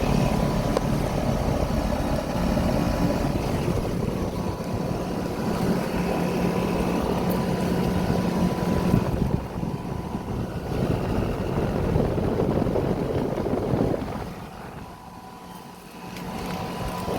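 Outdoor air-conditioner condensing units running: a steady fan whoosh with a compressor hum under it, dropping quieter for a couple of seconds near the end.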